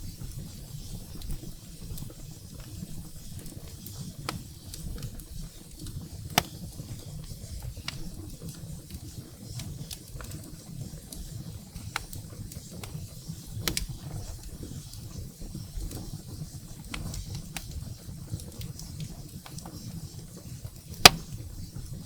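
Firewood burning in a fireplace: a steady low rumble of flames with scattered sharp crackles and pops. The loudest pop comes about a second before the end.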